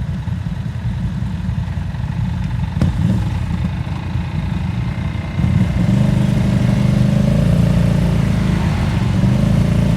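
ATV engine running, with a single knock a little under three seconds in. At about five and a half seconds the engine gets louder and holds there at higher revs.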